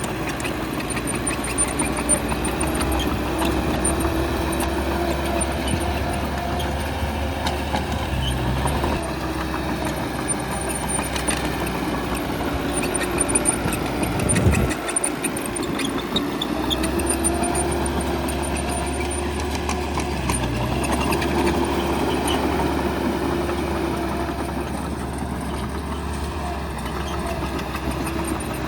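A bulldozer's diesel engine runs steadily, its pitch rising and falling as the load changes. About halfway there is a sudden loud knock, and the low rumble drops away for a couple of seconds before picking up again.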